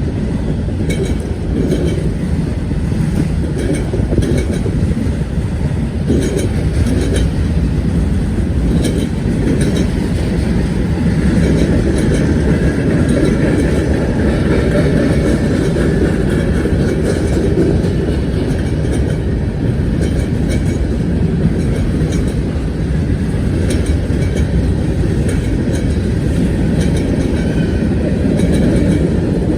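BNSF train rolling past, a steady loud rumble of its wheels on the track with repeated clicks as they cross rail joints.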